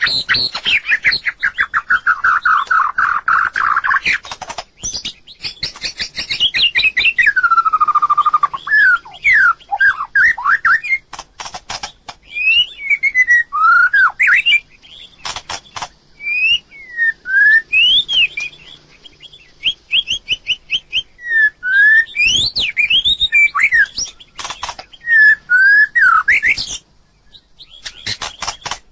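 White-rumped shama singing a varied song: fast runs of repeated notes at first, then clear whistled phrases that slide up and down, with a brief pause near the end.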